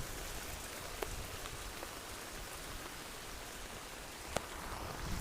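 Heavy rain falling: a steady hiss with a few sharp drops hitting close by, about a second in and near the end.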